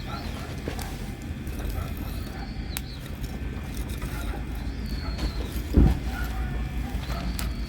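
Wood campfire lit with fatwood burning, with a steady low rumble and a few sharp pops. A single heavy thump about six seconds in.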